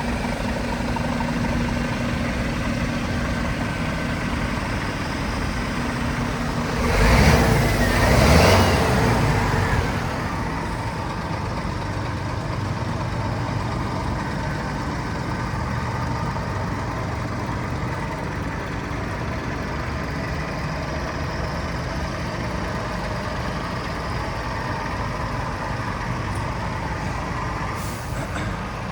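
Scania R450's 13-litre six-cylinder diesel idling steadily, with a loud hiss of released air about seven seconds in that lasts two or three seconds.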